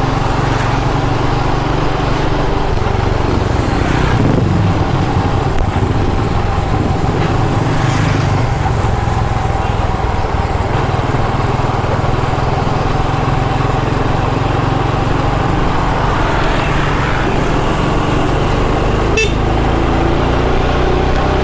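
Motorcycle engine running at a steady cruise, with a steady hum and a strong low rumble. A single short sharp click about nineteen seconds in.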